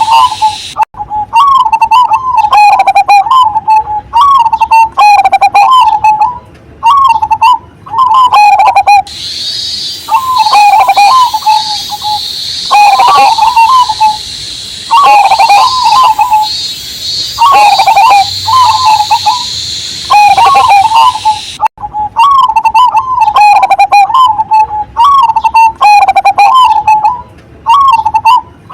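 Zebra dove (perkutut) cooing over and over, each phrase a quick run of short rolling notes at about the same pitch, with brief pauses between phrases. A cicada's steady high drone runs behind the cooing from about a third of the way in to about three quarters through.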